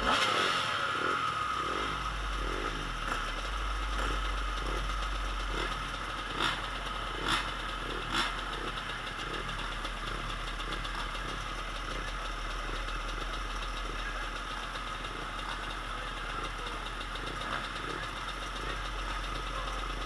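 Motocross dirt bikes running on the track, a steady engine drone that pulses and swells, with three short sharp knocks a few seconds in.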